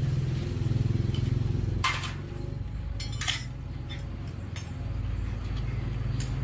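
A small engine running steadily at idle, with a few sharp metallic clinks of tools or parts about two, three and four and a half seconds in.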